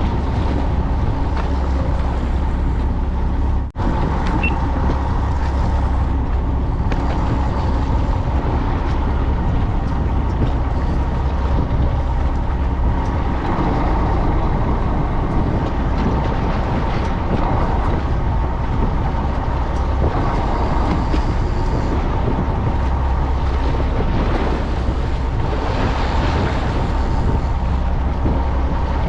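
Fishing boat's engine running steadily, a constant low hum with a brief dropout about four seconds in.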